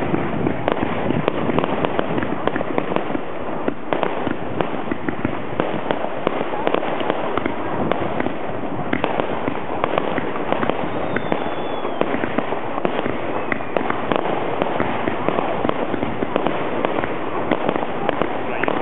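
Fireworks display going off continuously: a dense, unbroken stream of rapid pops and crackles from many bursts at once.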